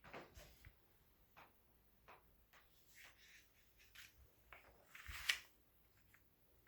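Near silence with a few faint scattered clicks, and a brief rustle with a soft thump about five seconds in.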